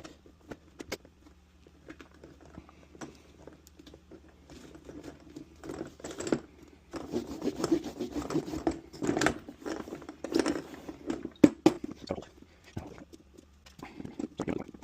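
Hands rubbing and pressing a peel-and-stick lining onto the inside of a plastic case: irregular rubbing and scraping that gets busier and louder about halfway through, with a few sharp clicks.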